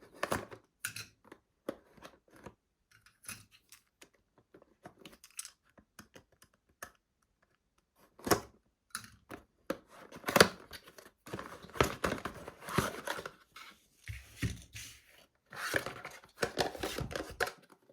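Hands handling packaging and small plastic parts: scattered clicks and light knocks, then from about eight seconds in, denser stretches of plastic or paper crinkling and tearing.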